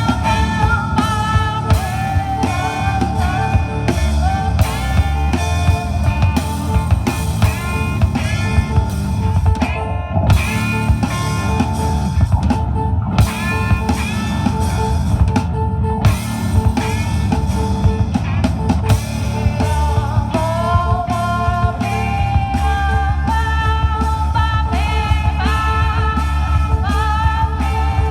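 Rock band playing live, with drum kit and guitars keeping a steady beat. A lead melody line glides and bends between notes over the top.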